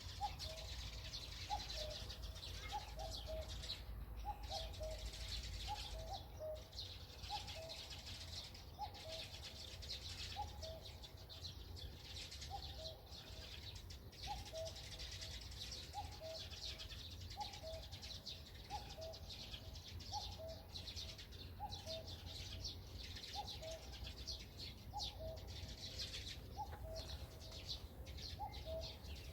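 Common cuckoo calling its two-note, falling 'cuck-oo' again and again, about once every second or so, over a dense high chirping of smaller birds and a low wind rumble.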